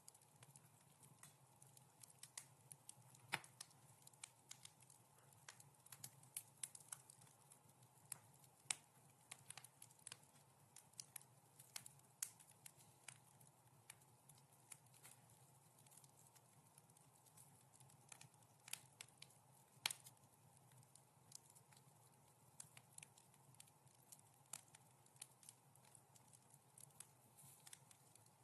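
Wood fire crackling softly: irregular sharp pops and snaps, some louder than others, over a faint steady hum.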